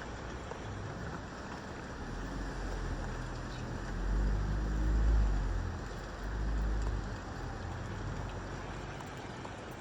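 Steady hiss of rain. In the middle, a low rumble swells and fades twice, like a vehicle passing.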